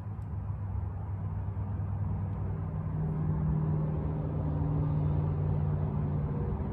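Car engine running steadily with a low hum, its tone growing stronger about three seconds in.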